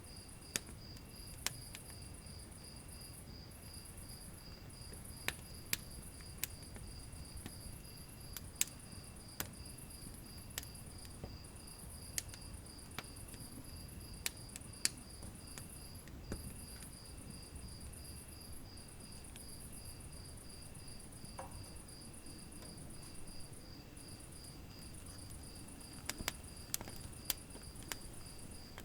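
Wood fire in a fireplace crackling, with scattered sharp pops and a cluster of them near the end over a low steady rush. Behind it, a steady high-pitched chirping in even pulses.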